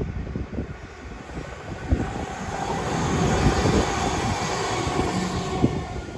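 Northern diesel multiple unit passing close by. Its engine and rail noise swell to a peak about three to five seconds in, then begin to fade. Wind buffets the phone microphone with low rumbling gusts throughout.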